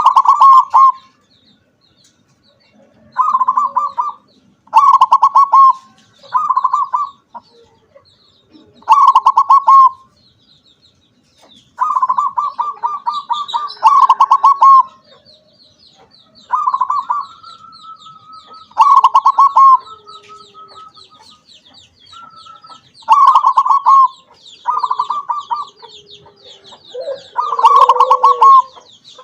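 Perkutut (zebra dove) of the crossing strain cooing its staccato song: about eleven quick, pulsed phrases of around a second each, spaced by pauses of one to a few seconds. A faint, thin chirping runs underneath from about halfway through.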